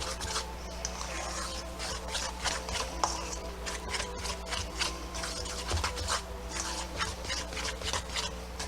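Thick cornmeal hush puppy batter being stirred in a bowl, with rubbing, scraping strokes several times a second.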